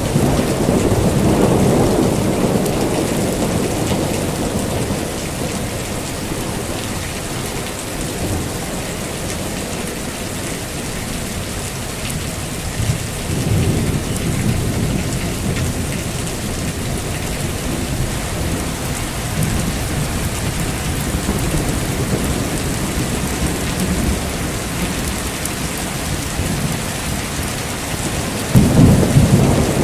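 Heavy rain falling steadily, with rolls of thunder: one rumble early on, another about halfway, and a sharper, louder clap near the end.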